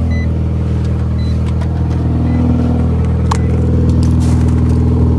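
Turbocharged 13B rotary engine of a Mazda RX-7 FC running at a steady idle, its pitch holding without revs. A few sharp clicks sound over it in the second half.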